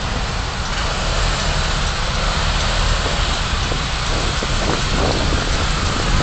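Car driving, heard from inside the cabin through a dashcam: steady engine rumble and road noise.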